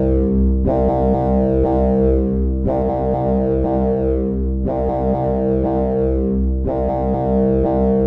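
Arturia Buchla Easel software synthesizer playing a sustained low chord, with a bright sweep that opens and fades away about every two seconds.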